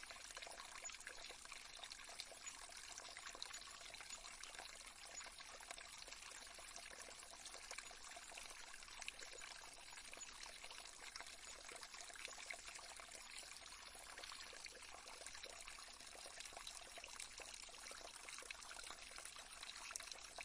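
Faint, steady trickling of a small stream: a gentle running-water sound bed with no change throughout.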